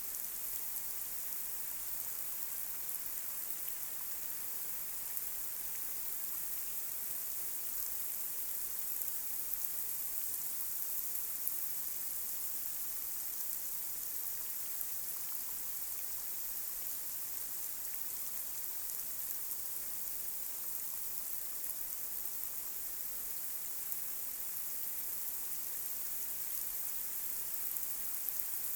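Light rain falling steadily on a street: an even hiss with faint, scattered drop taps.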